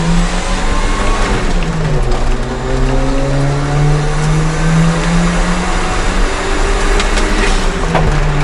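Daihatsu Copen's engine heard from the cabin accelerating hard, the revs climbing and dropping sharply at quick upshifts about two seconds in and near the end, made without the clutch through a dog-engagement gearbox.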